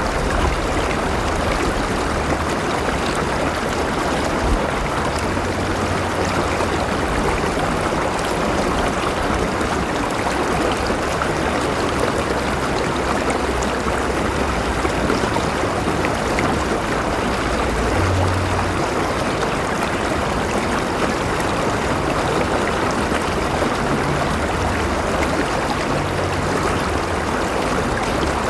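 River water flowing steadily over rocks: a continuous rushing with a light trickle and gurgle.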